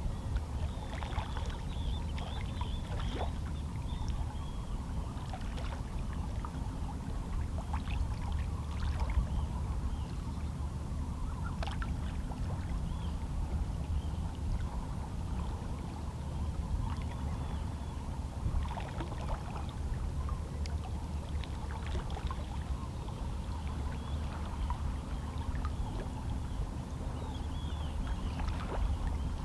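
Small, calm sea waves lapping and splashing softly against shoreline rocks in irregular little slaps, over a steady low rumble.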